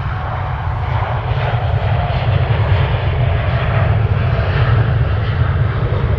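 An airliner's engines rumbling loudly as the aircraft passes, swelling slightly to a peak about four to five seconds in, with a faint whine above the deep rumble.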